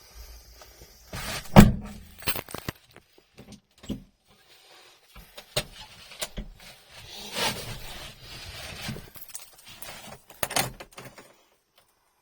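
Door and key handling on a Subaru Sambar truck just before the engine is started: a loud door thud about a second and a half in, then keys jangling, rustling and scattered clicks and knocks.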